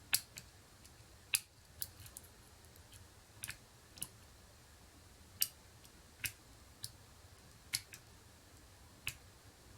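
About a dozen sharp, irregularly spaced clicks from a long hook pick working the pins of a pin-tumbler lock under light tension. The clicks are the pick and pins ticking inside the keyway, with the lock going into false sets.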